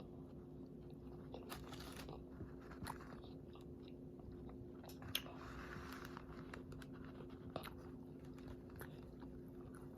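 Faint chewing of a crispy fried chicken sandwich, with scattered small crunches and clicks; one sharper click about five seconds in.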